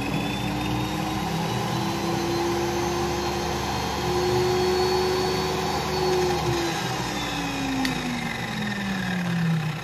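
Circular saw motor running free inside a sponge-lined plywood table-saw enclosure, a muffled hum. Its pitch rises as the speed controller is turned up, holds high for a few seconds, then falls steadily over the last three seconds as the speed is brought back down.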